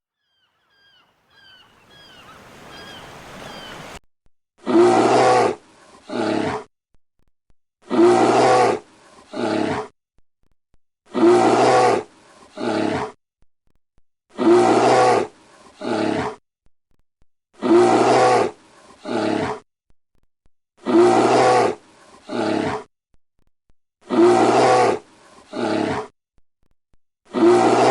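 Faint peeping for the first few seconds, then a bear roaring in a repeated pattern. A long roar and a shorter one follow each other about every three seconds, eight times over.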